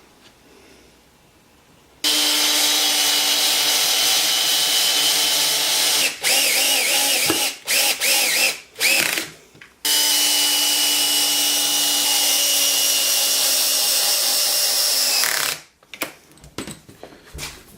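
Power drill driving screws into a maple block: after a quiet start it runs steadily for about four seconds, then in several short bursts with the motor speed rising and falling, then steadily again until it stops about fifteen seconds in.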